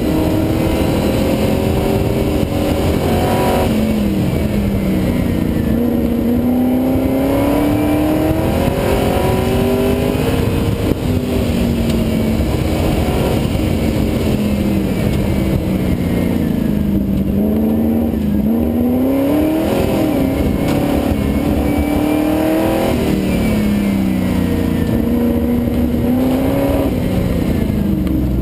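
V8 engine of an MGB driven hard, revving up and falling back again and again as it accelerates out of turns and lifts for the next. Its pitch climbs and drops every few seconds, heard on board the car.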